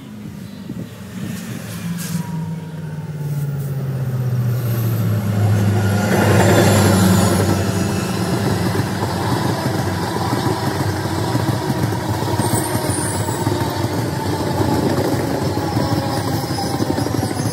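Diesel locomotive approaching with its engine drone growing louder and dropping slightly in pitch, loudest as it passes about six or seven seconds in, then its passenger coaches rolling past with a steady rumble of wheels on rail.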